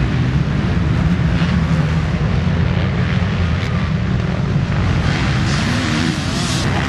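Motocross motorcycles racing on the track, their engines running loud and steady.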